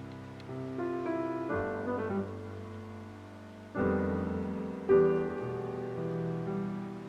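Piano music: notes and chords struck a few at a time and left to ring out and fade.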